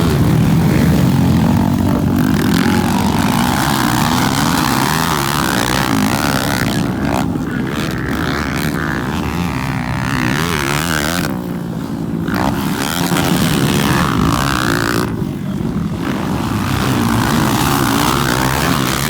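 Motocross motorcycle engines running and revving up and down during a race, their pitch rising and falling throughout.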